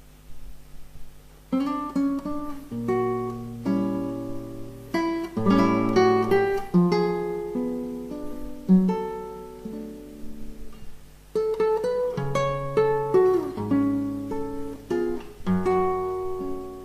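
Background music on acoustic guitar: a melody of plucked notes that ring and fade, over low bass notes.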